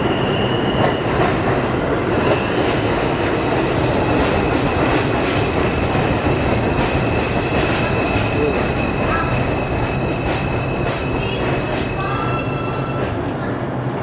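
An R142 subway train pulling into a station and braking. The wheels rumble and click over the rail joints with a steady high-pitched wheel squeal, and the noise eases slightly as the train slows near the end.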